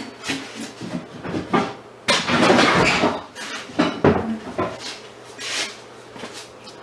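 Metal scrap parts being handled: a series of clinks and knocks, with a longer, louder scraping rattle about two seconds in and a couple of sharp clinks about a second later.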